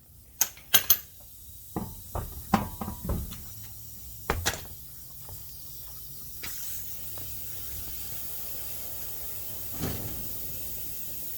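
Metal parts and tools being handled: a run of sharp clicks and clanks over the first four or five seconds, then a steady faint hiss.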